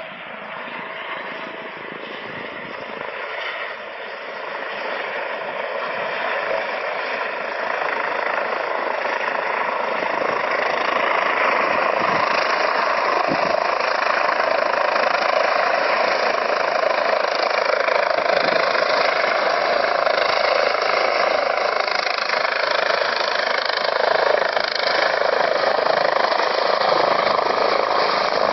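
Helicopter running, growing steadily louder over the first dozen seconds or so and then holding at a steady level.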